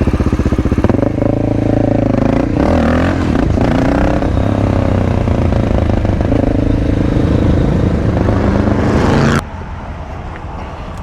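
Supermoto motorcycle engine running under way, its pitch rising and falling with the throttle. About nine and a half seconds in it drops suddenly to a quieter, duller engine sound.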